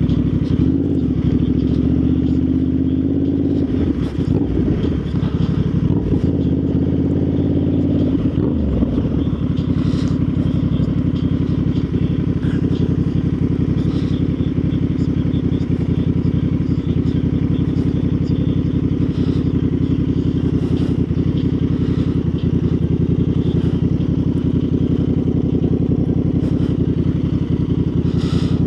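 Motorcycle engine running under way, its pitch rising and falling with speed changes for the first nine seconds or so, then holding a steady cruising drone.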